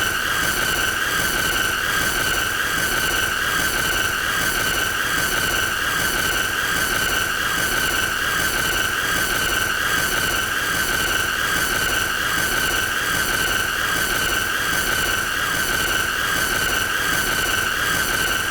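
A continuous high-pitched squealing tone over a harsh hiss, held at one steady pitch and level throughout.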